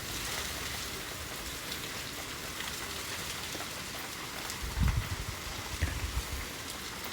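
Steady rain mixed with hail, a continuous hiss with scattered sharp ticks of hailstones landing. Two low, dull thumps come about five and six seconds in.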